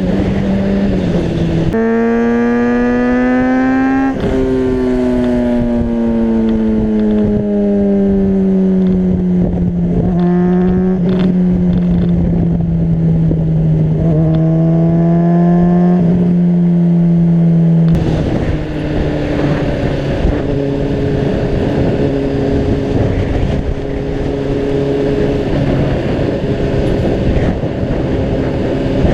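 Honda CBR600RR's inline-four engine running as the bike is ridden: the note jumps up a couple of times early on and then slowly falls, and about two-thirds of the way through it drops to a lower, steady note. Gusty wind rushes over the microphone throughout.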